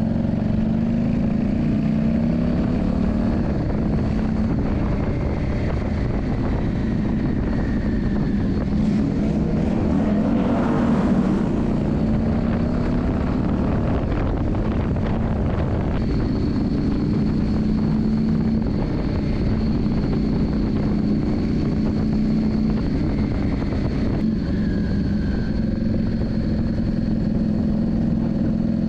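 Yamaha Drag Star 400's V-twin engine running steadily, its pitch drifting gently up and down. A rushing noise swells about ten seconds in, and a faint high whine sits over the engine in the second half.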